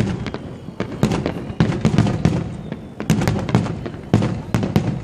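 Fireworks display: aerial shells bursting in quick volleys of sharp bangs, several a second at times, each followed by a rumbling echo.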